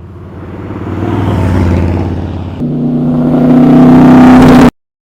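Race car engine accelerating and growing louder, with a gear change about two and a half seconds in, then revving harder until the sound cuts off suddenly near the end.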